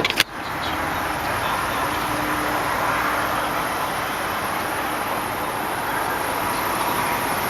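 A sharp knock just after the start as the hood latch is released, then the 2003 BMW 745i's 4.4-litre V8 idling steadily, very quiet and even.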